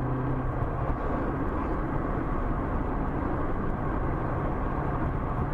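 Steady road noise of a car driving, engine and tyre noise together, with a low engine hum that fades about half a second in.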